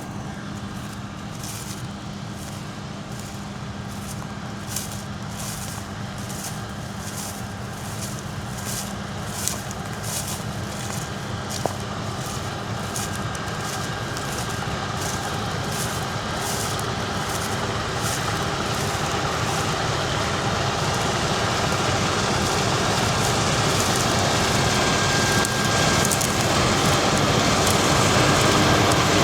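Heavy farm machinery engine running, growing steadily louder as it draws closer, with a regular high swishing about twice a second over most of the stretch.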